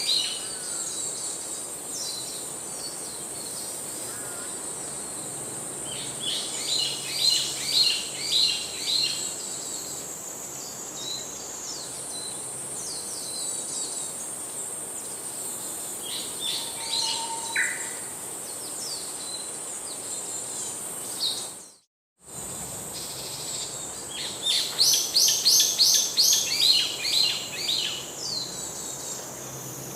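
Wild birds singing in bursts of rapid repeated high notes over a steady high-pitched insect drone. The sound cuts out completely for a moment about two-thirds of the way through.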